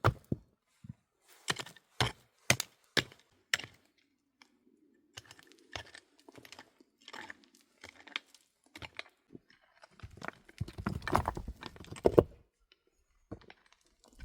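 A run of sharp knocks or chops, about two a second for the first few seconds, then scattered lighter clicks and taps. Near the end comes a louder stretch of scraping and rustling with a low rumble.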